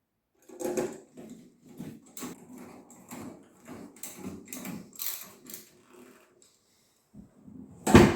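Irregular clicks, knocks and rattles of hard objects being handled, ending in one loud knock about eight seconds in.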